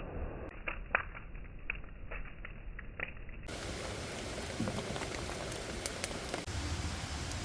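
Wood fire crackling, with irregular sharp pops and snaps over a steady hiss; the sound turns brighter and fuller about halfway through.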